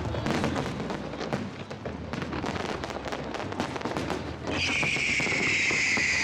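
Aerial fireworks crackling densely, with rapid pops and bangs. About four and a half seconds in, a high, steady, slightly falling whistle joins and holds.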